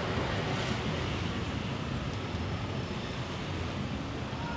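Steady outdoor wash of traffic and surf, with wind rumbling on the microphone.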